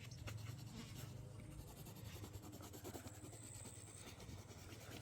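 Faint scratching of writing on paper, with a low hum underneath.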